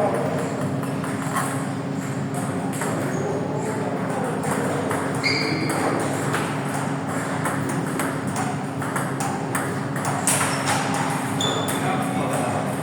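Table tennis balls being hit back and forth: a run of irregular sharp clicks from ball on bat and table, over a steady hum and the murmur of the hall. Two brief high squeaks, about five seconds in and near the end.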